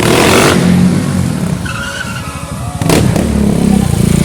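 Stunt motorcycle engine revving with its rear tyre skidding and squealing, with a sharp crack about three seconds in.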